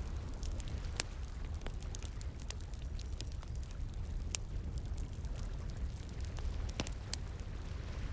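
Wood fire crackling, with irregular sharp pops and snaps, a few of them louder, over a steady low rush of flowing water.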